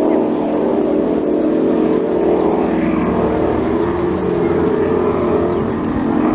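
Outboard engines of F1 racing powerboats running at race speed, a loud steady drone whose pitch wavers slightly.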